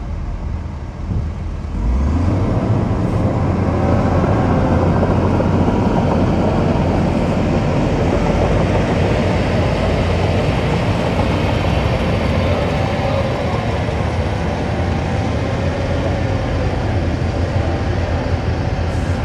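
Heavy diesel engine of earth-moving machinery running, revving up about two seconds in and then holding a steady, loud working note.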